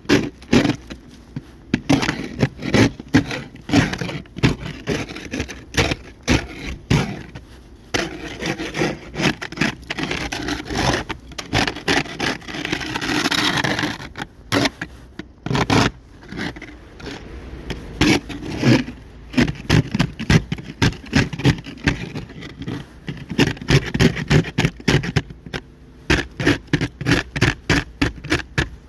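An ice scraper scraping a coat of freezing-rain ice off a car in quick repeated strokes, about two to three a second.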